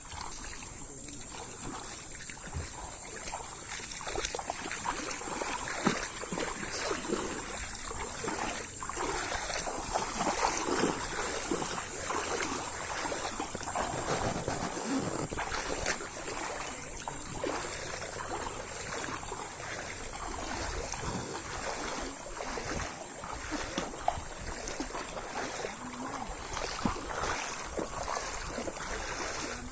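Water splashing and lapping irregularly, with many small splashes, over a steady high-pitched hiss.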